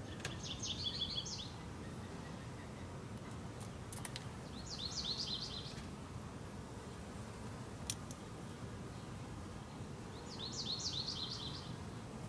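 A songbird sings the same short phrase of quick, falling high notes three times, a few seconds apart, over steady low background noise.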